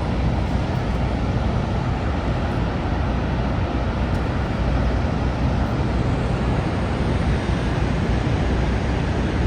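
Niagara Falls: a deep, steady, unbroken rush of falling water.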